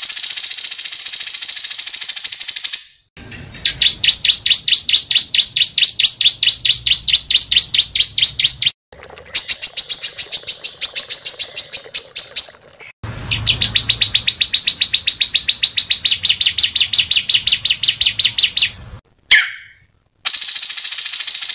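Small songbird singing rapid, dense trills: fast runs of evenly repeated high notes, several to the second, in phrases a few seconds long that break off suddenly before the next begins.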